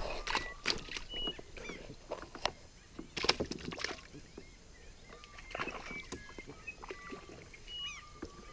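Irregular knocks and clatter against a canoe's hull, from gear or a fish being handled aboard. The knocks are loudest at the very start and a little past three seconds in. Short, high whistled bird calls come and go throughout.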